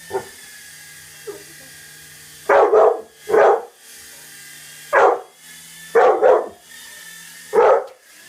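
A dog barking, about seven loud barks in short groups starting a couple of seconds in, over the faint steady whine of a toy helicopter's small electric motor.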